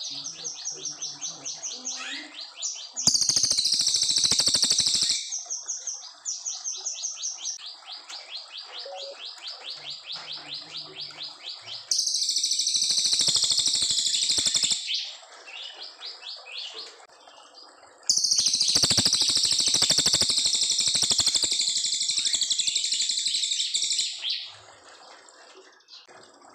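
A brown cililin songbird singing long, clear phrases. Fast, evenly repeated high notes alternate with three loud bursts of very rapid, dense high twittering, the longest lasting about six seconds near the end.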